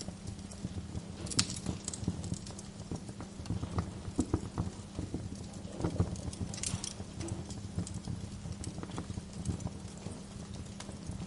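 Wood fire crackling in a fireplace, with irregular sharp pops and snaps, over a low steady hum.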